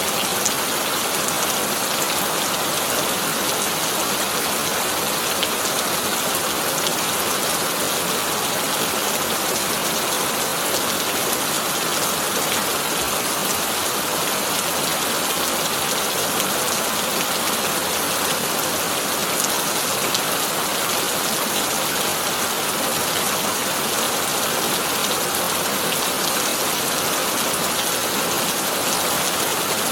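Heavy rain falling on a tin roof: a steady, dense patter and hiss that holds even throughout, with no thunder.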